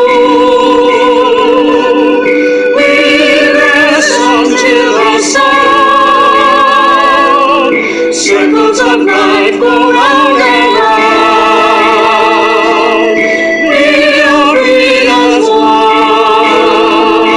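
Operatic singing with wide vibrato, the sung notes changing every second or two over a steady held accompaniment.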